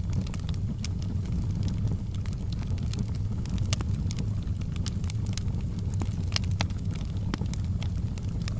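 Wood fire crackling, with irregular sharp pops and snaps scattered over a steady low rumble.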